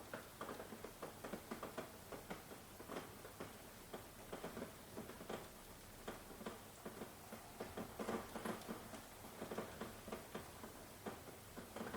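Rain pattering, with many irregular drops tapping and dripping close by over a steady hiss of rainfall; no thunder.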